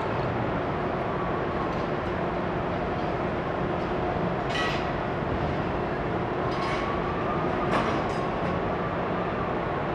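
Steady rumbling background noise, with a few faint clicks and knocks around the middle and near the end.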